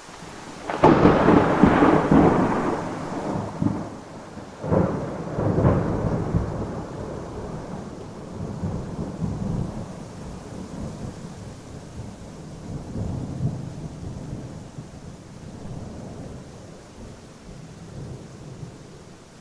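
Thunderstorm: a sudden thunderclap about a second in, a second peal around five seconds in, then a long rolling rumble that slowly dies away over steady rain hiss.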